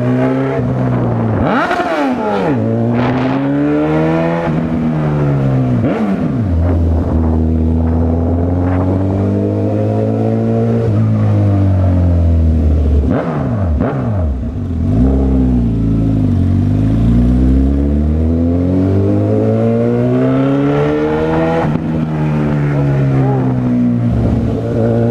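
Honda CB1000R inline-four engine pulling and easing off again and again as the motorcycle is ridden, its pitch climbing and dropping through the gears. A few other vehicles sweep past along the way.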